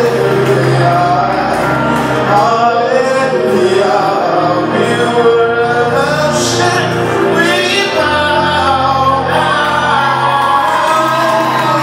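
Gospel worship music: voices singing together over instrumental backing, with long held bass notes underneath.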